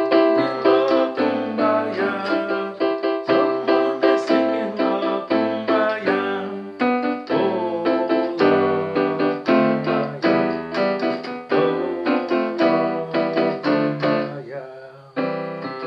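Electronic keyboard with a piano sound playing a quick run of struck chords and notes, several a second. Near the end it settles on one chord that rings out and fades.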